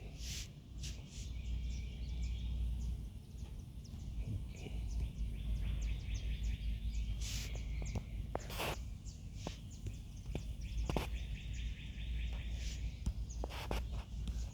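Steady low background rumble, with scattered short clicks and faint high chirping that comes and goes.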